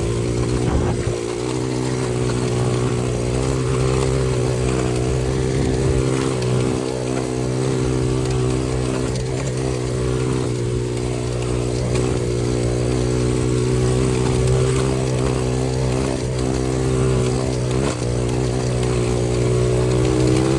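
Xpro 125cc dirt bike's single-cylinder four-stroke engine running while riding, its pitch mostly steady with small rises and falls and brief dips about a second in and near the end.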